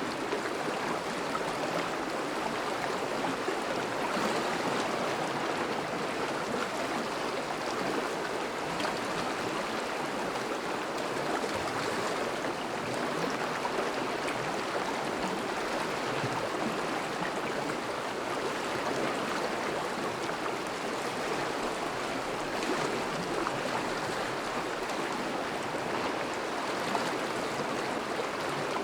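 Thawing river's current flowing steadily, an even rushing and burbling of moving water.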